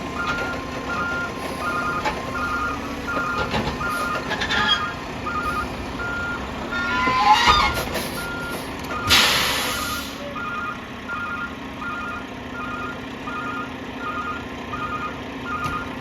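Roll-off truck reversing: its backup alarm beeps steadily, about one and a half beeps a second, over the running diesel engine. Around seven seconds in there is a louder rattling stretch, and just after it a short sharp hiss of air.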